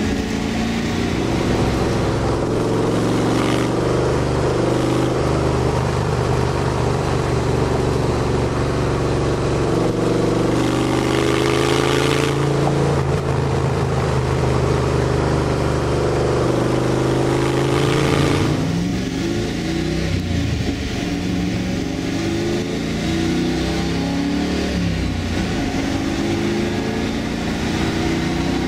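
350 small-block Chevy V8 running while the car drives along, heard on board. The engine holds a steady note for most of the first two-thirds; then the note changes and the revs climb again in the last part.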